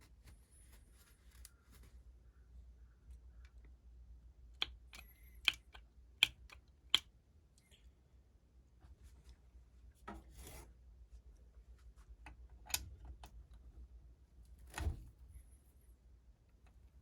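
Hand tools and small metal engine parts being handled during engine assembly: a scattering of sharp clicks and taps, with a short rustle in the middle.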